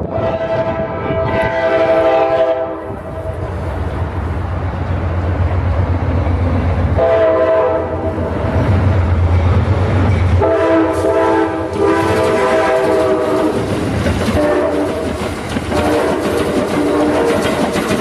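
Amtrak passenger train passing, its locomotive horn sounding a chord in five blasts of one to three seconds each over the rumble of the diesel engine and the clack of wheels on the rails. The engine rumble fades about ten seconds in as the locomotive goes by, leaving the horn and the rolling cars.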